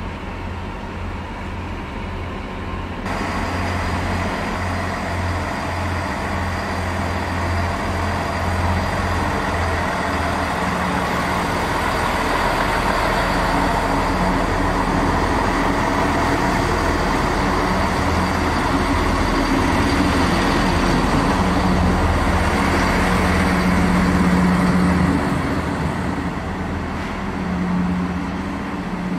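Train running: a low throbbing hum, then from about three seconds in a growing rush of running noise with steady tones that swells for some twenty seconds and drops away near the end.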